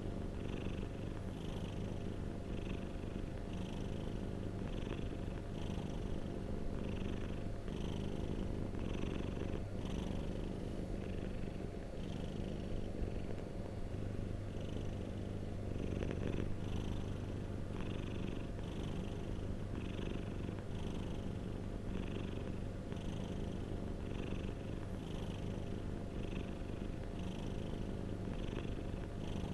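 Domestic cat purring continuously, a steady low rumble that pulses about once a second with its breathing.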